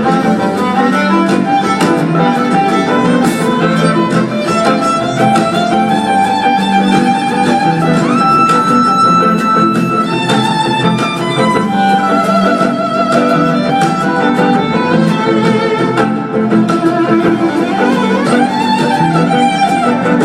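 Instrumental music without singing: a bowed violin playing held and wavering melody lines over plucked strings.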